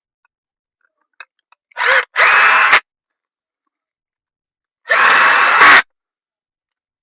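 A power drill spinning up and running in two short bursts of about a second each, about three seconds apart, with a steady whine once up to speed. This is plausibly driving in engine crankcase bolts.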